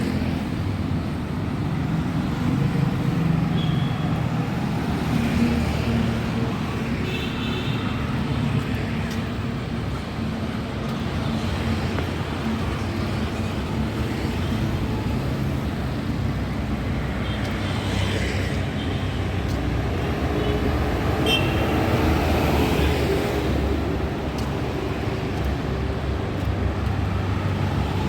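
Busy road traffic passing: a steady rumble of engines and tyres, with a few brief high-pitched tones now and then.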